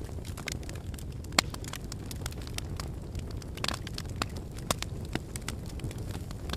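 Wood fire burning in a fireplace: a steady low rumble with irregular crackles and pops, the loudest about one and a half seconds in.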